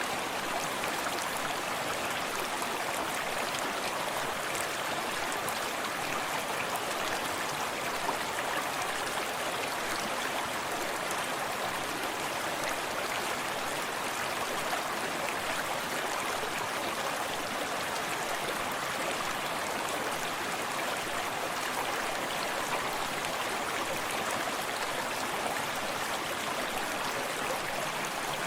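Shallow forest stream flowing steadily, its water babbling and splashing over stones, with a small waterfall cascading behind it.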